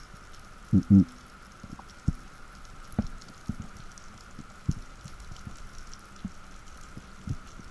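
Underwater ambience heard through a camera housing: a steady hiss with a faint high hum, broken by irregular muffled low pops and knocks. The loudest is a double pop about a second in.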